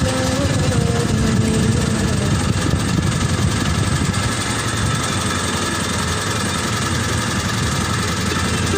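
Engine of a klotok, a small wooden river motorboat, running steadily with a fast, even chugging.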